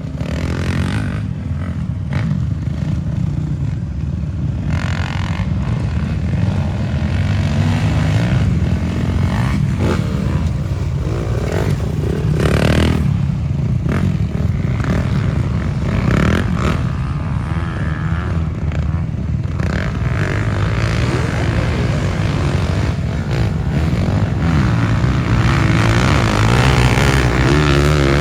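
Motocross dirt bikes running on a dirt track, their engines revving up and down again and again as they ride.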